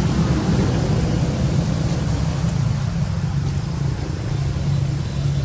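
Steady low engine rumble, unchanging.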